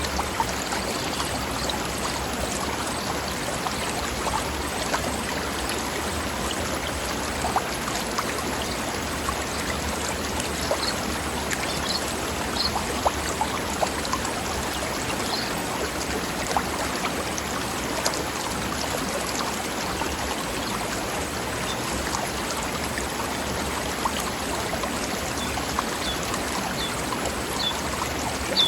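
River flowing over rocks: a steady rush of water with many small splashes and bubbling.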